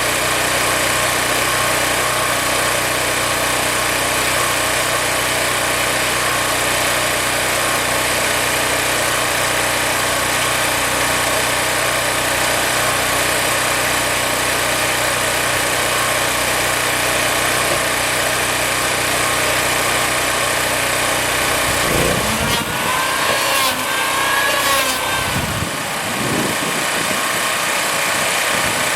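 A woodworking machine's motor running steadily with a loud, even whir. About 22 seconds in the sound changes for a few seconds, with short rising and falling tones, then settles back.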